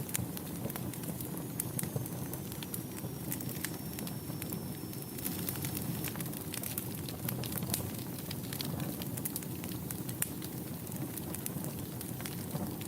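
Wood fire burning in a fireplace: a steady low rush of flames with frequent sharp crackles and pops. A faint high whistle slides down and holds for a few seconds near the start.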